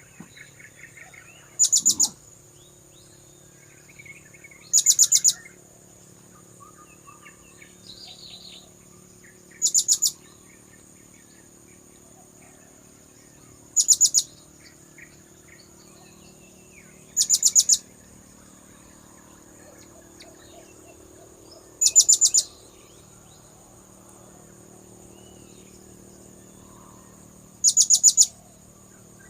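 Blue-crowned hanging parrot (serindit) lure call: seven short bursts of rapid, very high-pitched chirps, each about half a second long, repeated every few seconds. A steady high whine and faint calls of other birds lie underneath.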